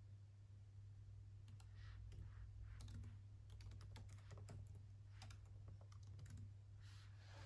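Faint typing on a computer keyboard: irregular keystrokes starting about a second and a half in, over a steady low hum.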